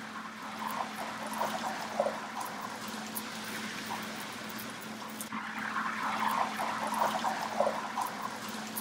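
Sea bass fillet sizzling and crackling in hot oil and a splash of water in a skillet, with the crackling growing denser about six seconds in. A steady low hum runs underneath.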